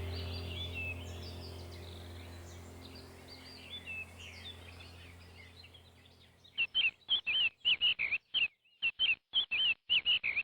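Small birds chirping over a low steady hum that fades away. From about halfway through, the same short chirp repeats rapidly, about four times a second, with dead silence between the chirps.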